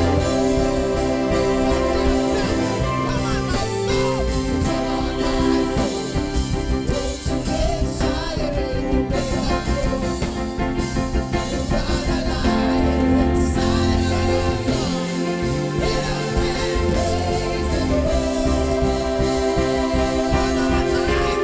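Gospel worship music: a band with drums and held chords under a sung vocal line.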